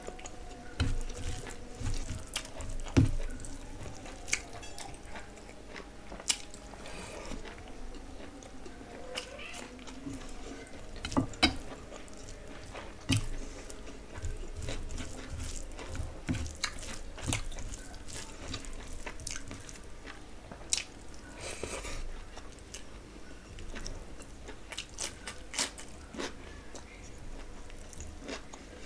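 Close-miked eating sounds: a person chewing mouthfuls of rice, curry gravy and chicken eaten by hand, with scattered sharp mouth clicks and moist chewing noises.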